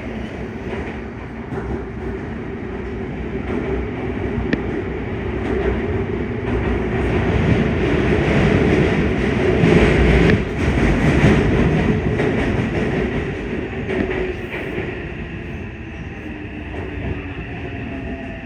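Yokohama Municipal Subway Blue Line 3000N car running at speed, heard from inside: wheel and rail rolling noise swells and then eases off. Near the end the Mitsubishi IGBT-VVVF inverter's rising whine comes in.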